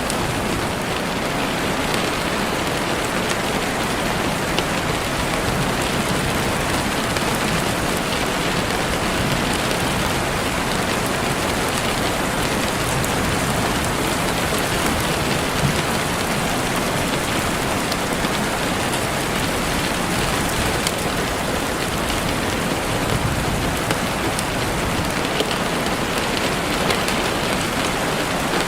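Steady heavy rain falling on leaves and the forest floor, a dense even hiss with scattered small drop ticks.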